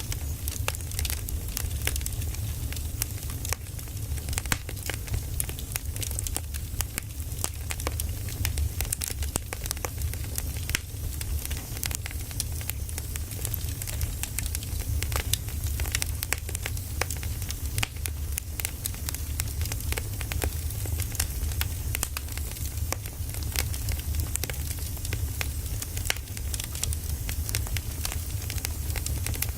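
Firewood burning, crackling with many irregular sharp pops and snaps over a steady low rumble.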